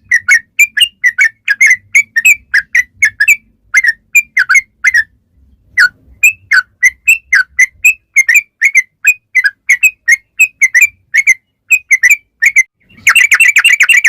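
Yellow-vented bulbul (trucukan) singing a long string of short, loud chirping notes, about three or four a second with a couple of brief pauses. About a second before the end it breaks into a fast rapid-fire trill, the 'ropel' song.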